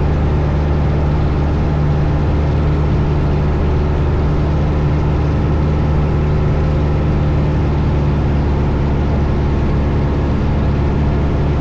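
Steady in-flight cabin drone of a 1972 Cessna Skyhawk's four-cylinder Lycoming engine and propeller, an even, unchanging hum.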